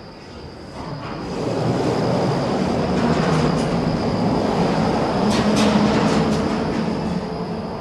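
A train passes, building up about a second in and staying loud before easing off near the end. A few sharp wheel clacks come around the middle.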